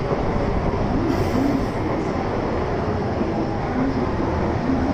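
N700A shinkansen train running slowly past the platform as it pulls into the station, a steady rumble of wheels and running gear on the track.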